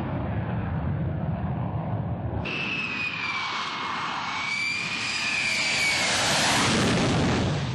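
A low rumble, then a jet aircraft, the Boeing X-32A, approaching with a high whining tone over a rising rush, louder toward the end as it nears and starts to pass.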